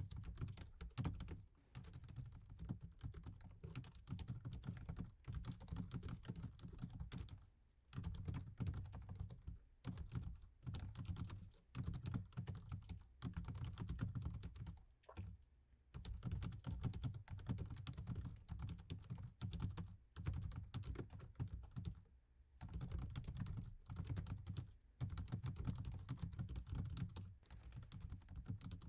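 Laptop keyboard being typed on fast and continuously, a dense stream of key clicks broken by brief pauses every several seconds.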